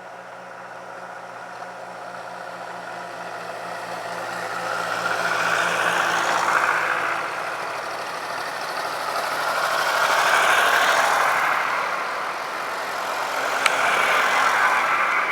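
Tractor engines running, the sound swelling and fading three times as it goes, with a single sharp click near the end.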